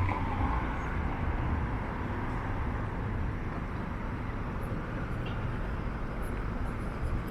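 City street traffic: motor vehicles going by, a steady rumble and tyre noise that eases off slightly after the start.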